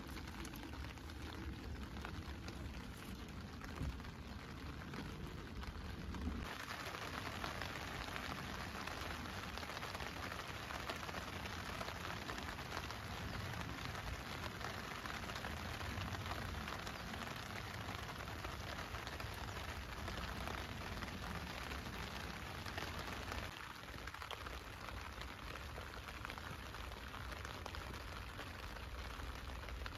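Steady patter of rain falling on the tent, growing fuller and brighter about six seconds in.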